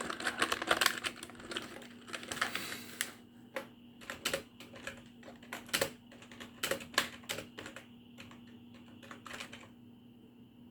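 Computer keyboard keys being typed and tapped in irregular quick clusters of clicks, thinning to a few scattered taps near the end, over a faint steady hum.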